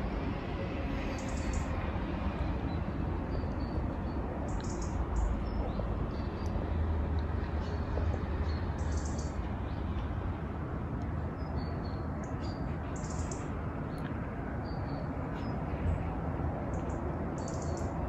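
Birds chirping in short, high calls every second or so, over a steady low outdoor rumble.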